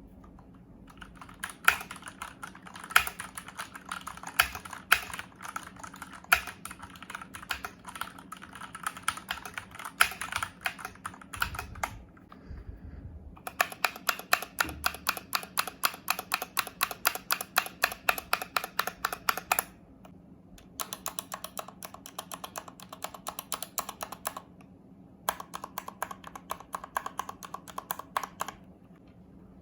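Husky Blizzard 60% mechanical keyboard being typed on, in long runs of rapid key clicks. There are short breaks about twelve, twenty and twenty-five seconds in.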